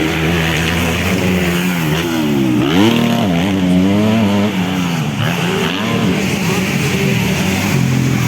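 250cc motocross bike engines racing on the circuit, revving; one engine's pitch drops and then climbs sharply about two and a half seconds in, and dips and rises again around five seconds in.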